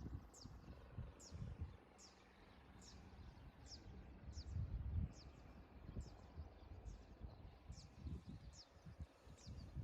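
A songbird repeating a short, high, falling call note about once every 0.8 seconds, faint, over an uneven low rumble and bumps.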